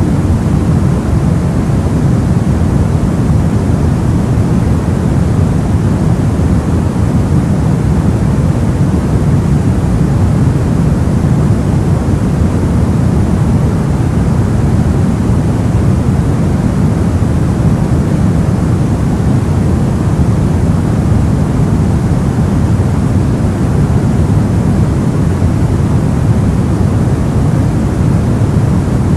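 Soft white noise for sleep: a steady, deep, even hiss that never changes.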